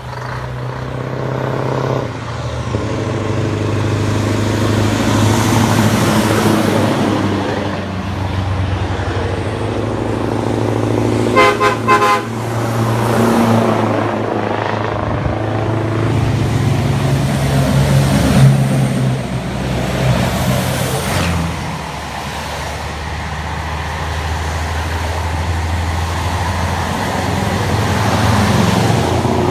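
Scania bonneted truck's diesel engine running, its note rising and falling, with brief horn toots about twelve seconds in.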